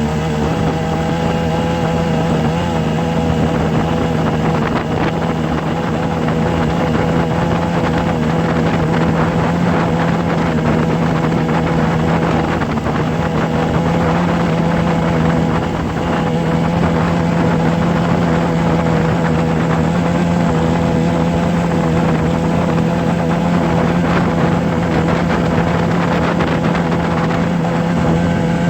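A steady, unchanging mechanical drone: a constant low hum with a few higher steady tones over a noisy rush, like a running engine or motor.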